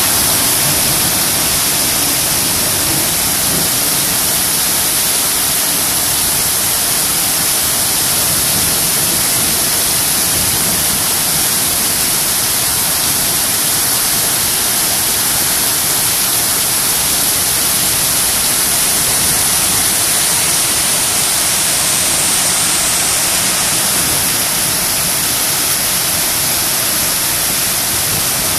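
Rain pouring down in a steady, dense hiss with no let-up.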